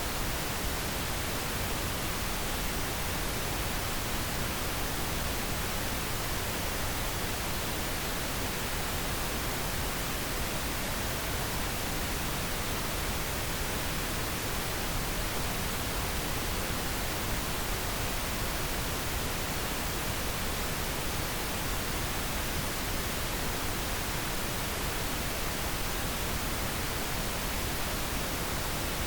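Steady pink noise, an even, unchanging hiss.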